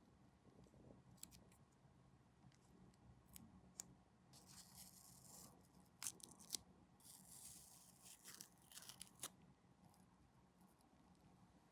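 Faint hand-tool work on small plastic scale-model parts: scattered sharp clicks and two short stretches of scratchy rasping a couple of seconds apart.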